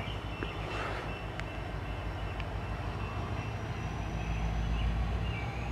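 Diesel freight locomotives idling with a steady low throb that grows louder near the end.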